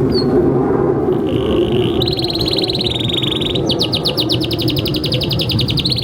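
Domestic canary singing long trills of rapidly repeated notes, starting about a second in and switching to a faster, higher roll near the middle. Under it there is a steady low background rumble.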